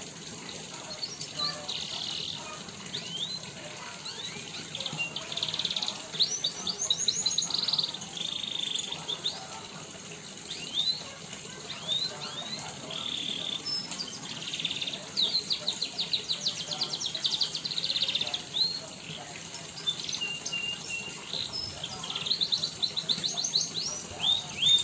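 Small caged songbirds singing and chirping continuously, with short sweeping chirps and several fast rattling trills.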